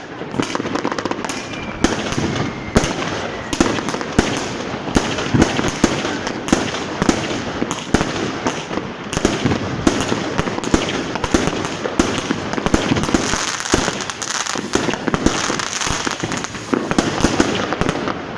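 Fireworks and firecrackers going off in a continuous barrage: many sharp bangs a second over dense crackling, with no let-up.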